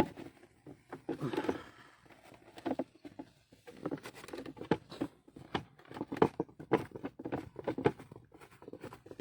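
Irregular clicks and knocks of hand tools and metal and plastic parts being handled while the handbrake assembly is taken apart, with a sharp knock at the very start.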